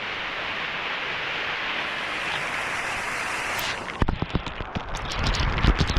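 Waterfall rushing steadily. About four seconds in this gives way to rough, irregular low buffeting with knocks and crackles on the microphone.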